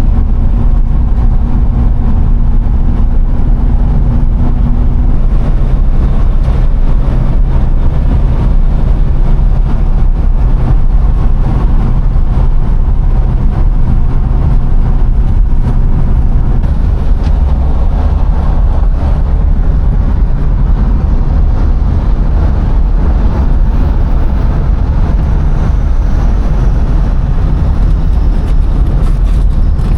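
A car on the move: steady, loud engine and road noise with no breaks.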